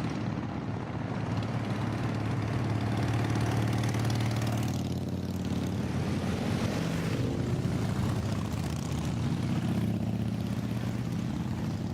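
Steady engine drone and road noise from a moving vehicle, with repeated swells of noise as motorcycles pass by.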